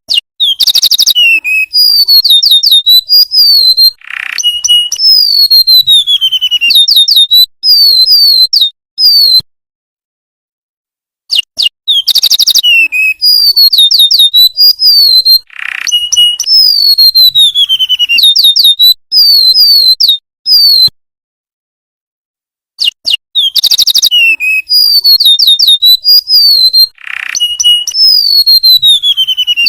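Golden-bellied gerygone (remetuk laut) singing in a looped recording: quick series of thin, high whistled notes, many sliding downward. The same song bout repeats three times, each break a second or two of complete silence.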